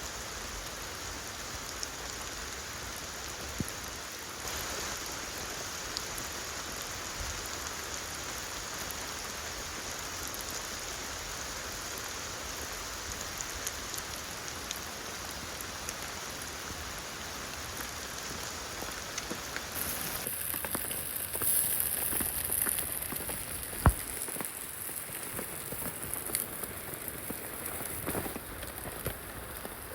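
Steady rain falling in a rainforest. About two-thirds through, the sound changes suddenly to scattered, closer drips, with one sharp tap.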